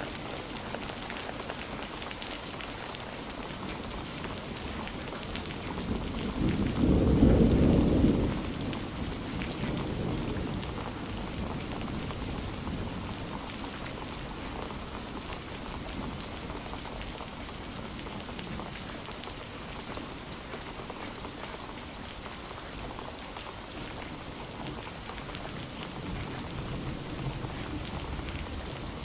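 Steady rain falling, with one rumble of thunder that swells about six seconds in, peaks a couple of seconds later and rolls away.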